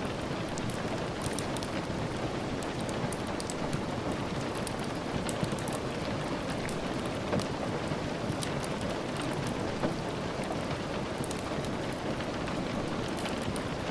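Steady rain falling, with scattered sharp ticks of drops throughout.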